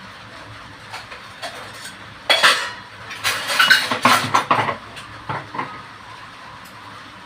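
Steel kitchen utensils clattering: a few light clinks, then a run of knocks and scrapes with brief metallic ringing, loudest from about two to five seconds in.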